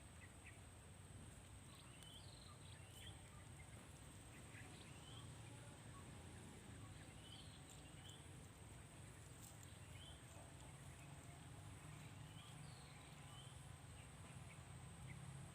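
Near silence: faint outdoor ambience with scattered short, high bird chirps and a steady high insect drone.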